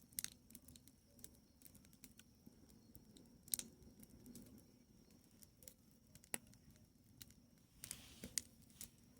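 A wood fire of dry logs crackling faintly, with scattered irregular pops and snaps and a few sharper cracks.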